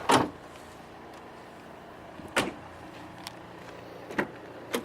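Four sharp clunks from the car's fittings being handled: a loud one at the start, another after about two and a half seconds, and two in quick succession near the end.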